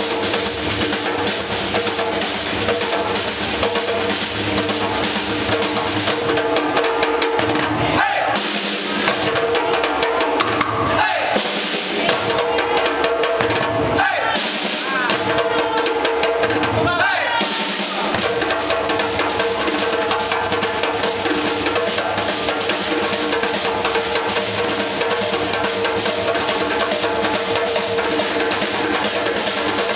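Brazilian-style percussion ensemble drumming a continuous groove on bass drums and snares. Several sliding, falling calls rise above the drumming for a few seconds near the middle.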